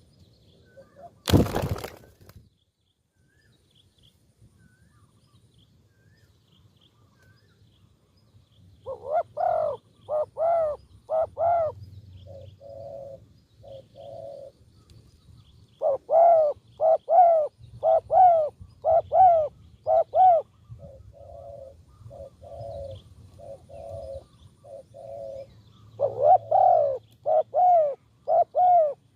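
Spotted doves cooing in repeated phrases. Each phrase is a few loud, arched coos followed by softer ones, coming back several times. A single sharp knock sounds about a second and a half in, before the cooing starts.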